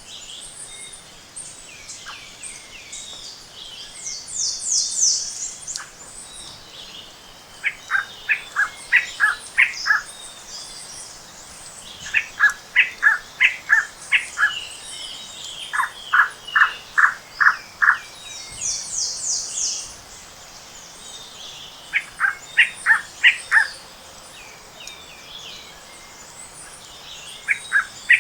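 Tropical forest dawn chorus: phrases of short, clear notes repeat every few seconds. Twice, a high, fast trill comes in, about four seconds in and again near nineteen seconds.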